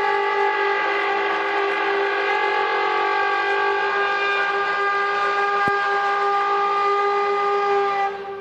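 Bulldozer blade scraping finished concrete, giving one long, steady, horn-like drone rich in overtones that falls away near the end, with a single click partway through. This is the sound reported as the mysterious 'trumpet sound' from the sky.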